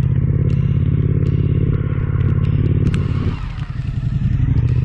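Suzuki V-Strom 1050XT's V-twin engine running steadily under way. The engine note eases off briefly about three and a half seconds in, then picks up again.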